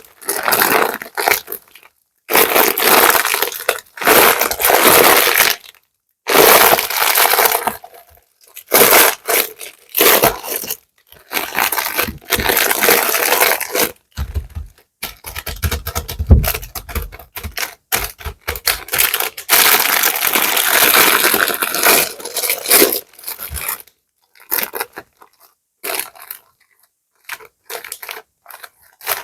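Plastic bags being rustled and crumpled by hand in bursts of a second or two, with short silent gaps between them and a few low bumps of handling near the middle.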